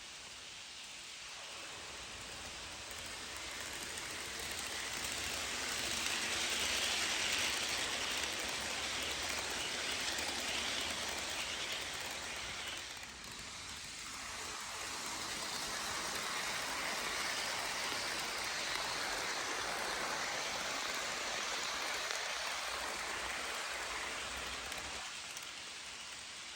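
HO scale model passenger train rolling along the track: a steady hiss of metal wheels on rail. It swells as the train comes near, dips briefly about halfway through, swells again, then fades near the end.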